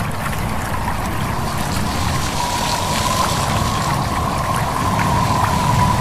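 Stream babbling and trickling under a steady rush of wind, with a thin, steady high tone that comes in about two seconds in and holds.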